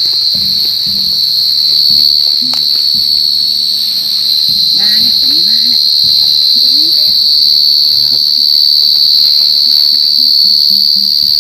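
Field cricket calling close by: one loud, unbroken high-pitched trill that holds steady throughout, the male's calling song that the hunters track to find the burrow.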